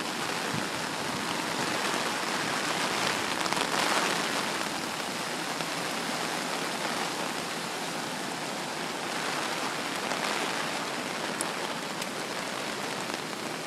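Steady wash of storm water noise from Hurricane Irene's rain and flooding, swelling slightly about four seconds in.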